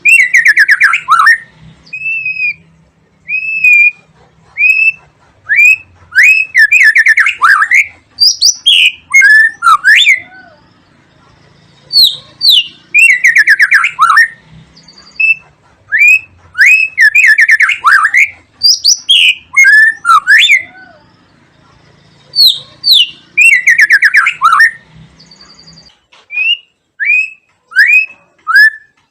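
White-rumped shama singing: loud, varied phrases of clear whistled notes and fast rattling trills, with short pauses between phrases.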